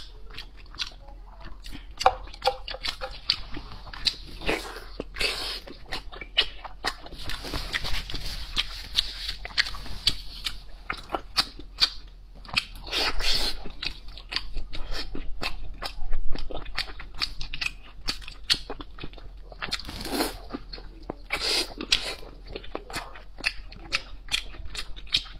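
Close-miked mouth sounds of a person biting and chewing fatty pork belly: a steady run of wet smacks and quick clicks, with a few louder bites along the way.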